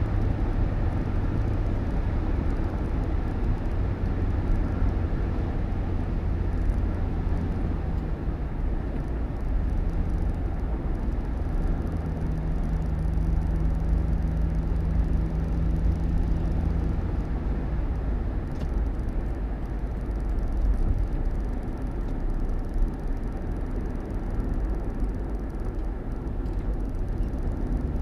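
Vehicle on the move: a steady low rumble of engine and road noise, with a faint steady hum in the middle stretch.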